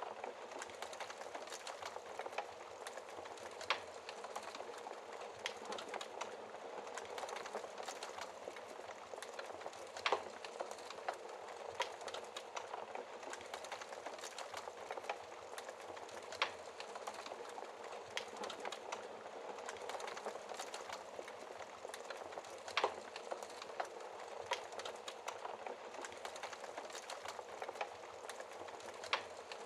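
Wood fire crackling in a fireplace: a steady soft hiss full of small ticks, with a louder sharp pop about every six seconds.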